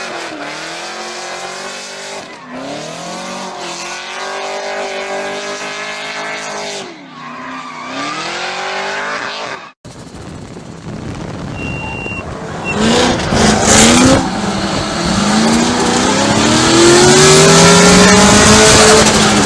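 Drift car engines at high revs, the pitch dipping and climbing as the throttle is worked, with tyres squealing. About halfway there is an abrupt cut to a louder car whose engine revs rise steadily and then fall off near the end.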